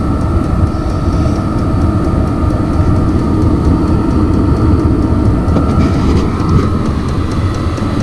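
Vevor 5 kW diesel air heater running just after lighting: its burner and blower give a loud, steady low rush of air with a constant thin whine over it.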